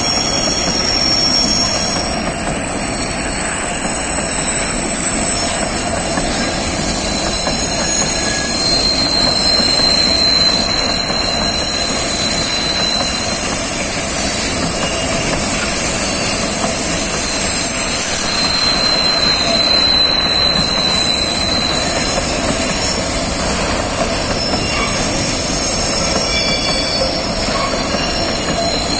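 Freight wagons rolling past on a curve: a steady rumble of wheels on rail, with long high-pitched squeals from the wheels that come and go.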